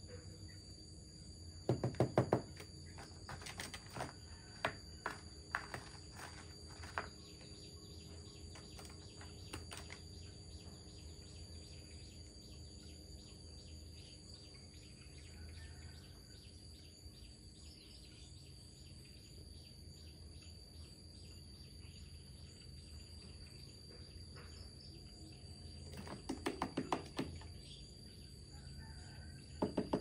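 A great barbet moving about on a woven rattan tray and pecking at the things on it: short clusters of quick taps about two seconds in and again near the end, with scattered single clicks in between.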